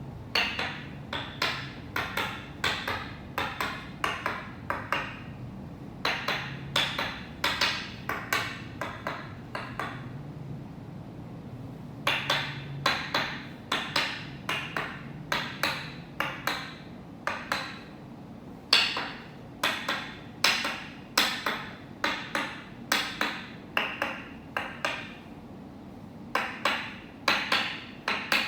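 Toksen massage: a wooden mallet tapping on a wooden stake pressed against the body, in steady runs of about two sharp knocks a second with short pauses between runs.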